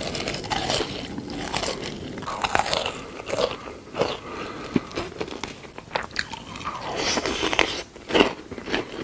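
Close-miked eating: a person biting and chewing crunchy food, with irregular crisp crunches.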